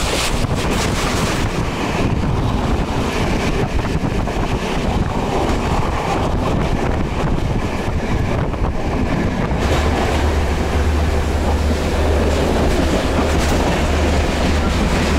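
Diesel passenger train running at speed, heard from inside a carriage: steady running noise throughout, with a low drone coming up strongly about ten seconds in.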